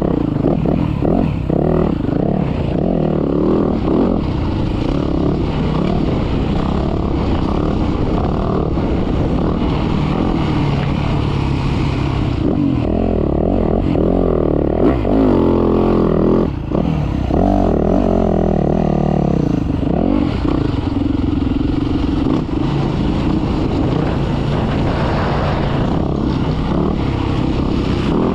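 Motocross dirt bike engine running hard, revving up and down repeatedly as it is ridden around the track.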